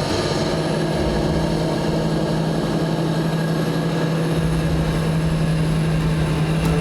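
John Deere 8530 tractor's six-cylinder diesel engine running at steady revs, an even drone with no change in pitch.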